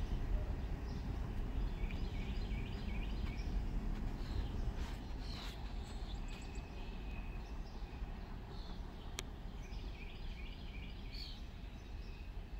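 Low rumble slowly fading away as the empty coal train rolls off into the distance, while birds chirp in two quick runs of short notes. A single sharp click about nine seconds in.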